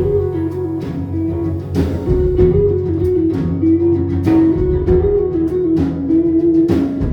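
Band playing an instrumental passage of a folk-rock song: a guitar picks a stepping melody over a sustained low accompaniment, with drum and cymbal hits keeping the beat.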